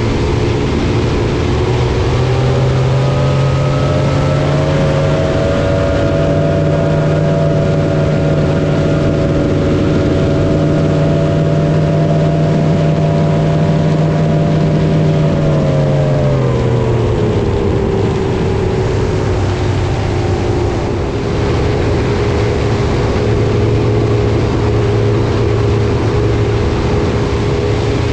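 Motorboat engine running under way. It speeds up over the first few seconds, holds a steady pitch, then eases back partway through and carries on steady at lower revs.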